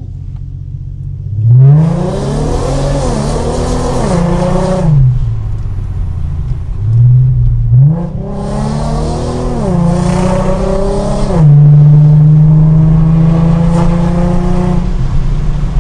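Modified exhaust of an Infiniti G37 coupe's 3.7-litre V6 (high-flow cats, Y-pipe, resonators, 3.5-inch mid pipe, axle-back) pulling hard twice. The pitch climbs, steps down briefly partway and drops off each time, then settles into a steady drone for the last few seconds.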